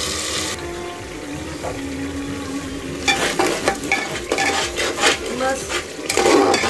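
Ground masala paste frying in hot oil in an aluminium pressure cooker, sizzling loudly at first and then quieter. About three seconds in, a spatula starts stirring, with repeated scraping strokes against the pot.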